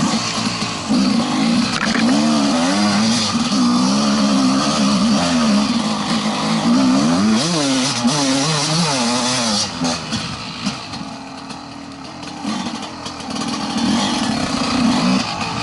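Enduro dirt bike engine under way up a woodland trail, its pitch rising and falling quickly with the throttle. It eases off about ten seconds in, then picks up again near the end.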